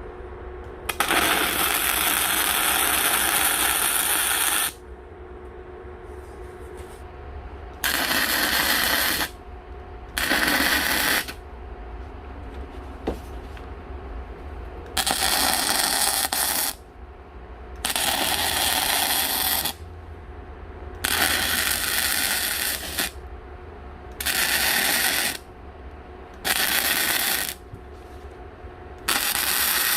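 Electric arc welding on steel plate: about nine short runs of crackling, sizzling arc noise, each one to three and a half seconds, starting and stopping abruptly as tack welds are laid. A steady low hum runs underneath.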